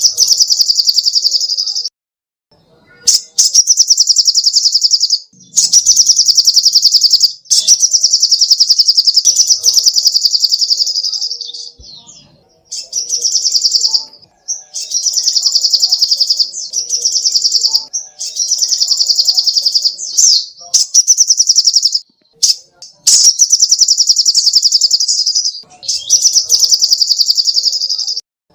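Sogoh ontong, a small sunbird, singing loud, rapid high-pitched trilling bouts of one to three seconds each, broken by brief pauses, about ten in a row.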